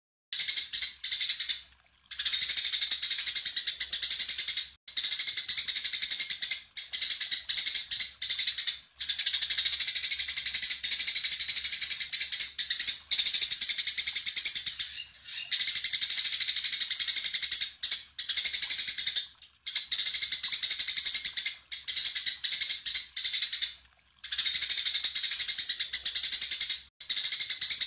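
Recorded songbird song: a fast, dense, high-pitched chatter that comes in runs of one to four seconds, each broken off abruptly by a short pause.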